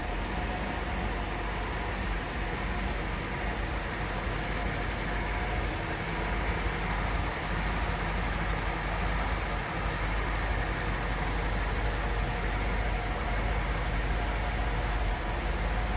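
1957 Ford Thunderbird E-code's 312 V8, with dual four-barrel carburettors, idling steadily.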